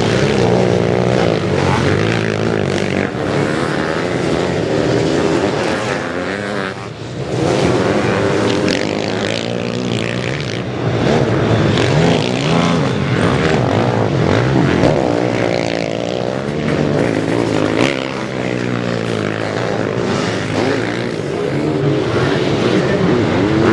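Sidecar motocross outfits racing, several engines revving up and down together as they pass, with a short lull about seven seconds in.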